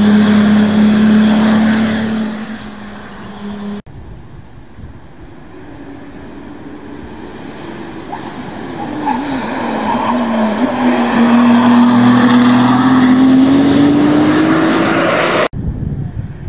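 Ferrari 296 GTB's twin-turbo V6 on track: a loud, steady engine note that fades as the car moves away, then, after an abrupt cut, comes back faint, wavers briefly and rises steadily in pitch and loudness as the car accelerates hard, before another abrupt cut near the end.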